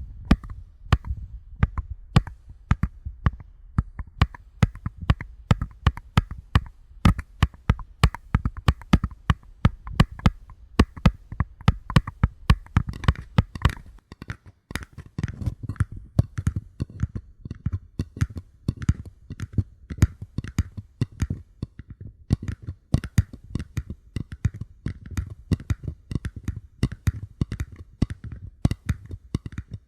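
Paper cups being tapped by fingers in quick, uneven runs of sharp taps, several a second, many with a soft hollow thump beneath, with a brief pause about halfway through.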